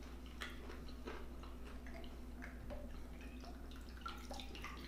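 Faint, scattered clicks and soft taps from handling a takeout food container and utensils, over a low steady hum.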